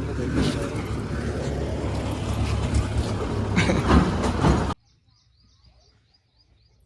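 Tractor engine running with a steady low rumble, which cuts off abruptly about three-quarters of the way through, leaving faint bird chirps.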